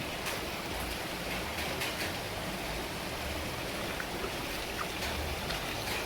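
Heavy rain falling steadily, with a few faint individual drop taps.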